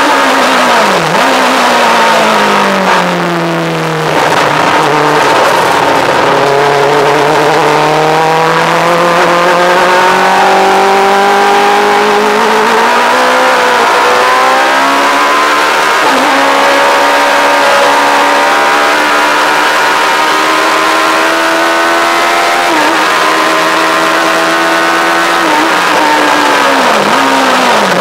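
Yamaha R1 inline-four motorcycle engine in a lightweight kit car, revving hard on track. Its pitch climbs and falls with quick gear changes, with a brief lift off the throttle about three to four seconds in.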